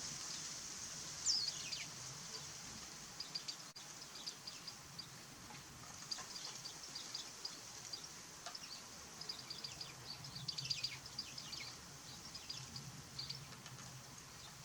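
Small birds calling: many short, high chirps coming in quick clusters, with one louder call sweeping down in pitch about a second in.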